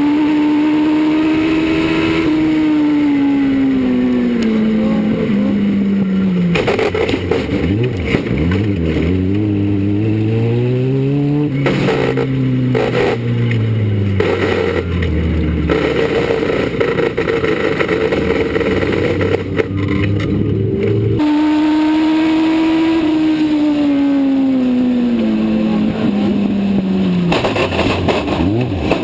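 Legend race car engines, Yamaha motorcycle-based four-cylinders, running at racing speed, the note falling steeply over a few seconds as a car slows and climbing again as it accelerates, several times over. About two-thirds of the way through the sound jumps abruptly back to a high, steady note.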